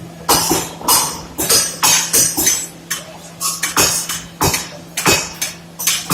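Repeated sharp metal-on-metal clanks, about two a second and unevenly spaced, over a steady low hum of workshop machinery.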